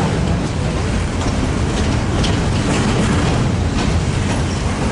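Double-stack freight train rolling past, a steady loud rumble of wheels on the rails.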